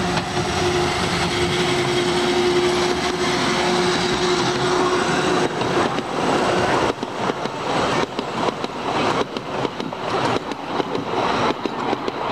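Miniature railway train running on the track. A steady hum carries through the first half, then irregular clicking and clatter of wheels over rail joints starts about seven seconds in.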